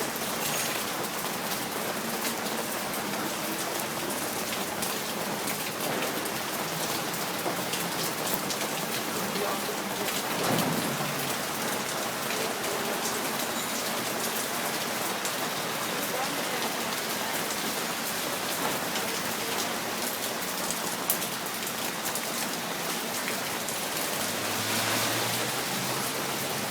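Summer rain falling steadily, a dense even hiss of drops, with a brief louder surge about ten seconds in.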